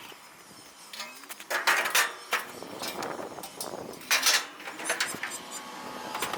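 Irregular clanks, knocks and scrapes of metal equipment being handled, such as mower ramps and gear being shifted on a trailer, with the loudest clatters about two seconds in and again about four seconds in.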